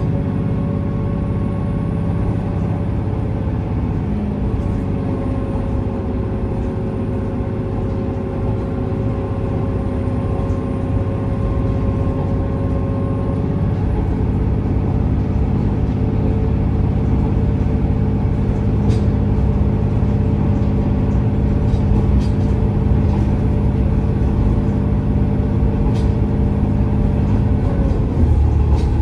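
Inside a KiHa 47 diesel railcar under way: the diesel engine drones steadily with several held tones over a low rumble from the running gear. A few faint clicks are heard. The engine note changes about halfway through and again near the end.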